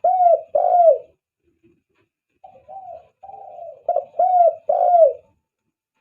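Spotted dove (tekukur) cooing in two phrases. The first comes at the start and the second about two and a half seconds in. Each phrase has softer lead-in notes and ends in two loud arching coos.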